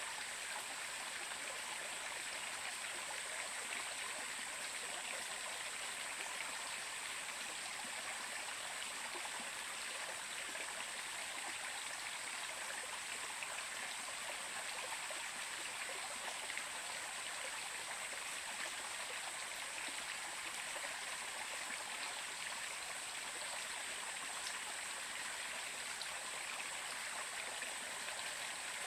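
Running water flowing steadily, an even rushing sound with no pauses and a high hiss on top.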